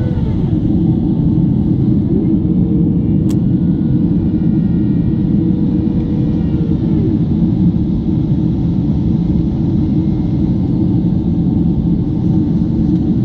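Airliner cabin noise in flight: a steady low rumble of engines and airflow with faint steady engine tones above it, and a single sharp click about three seconds in.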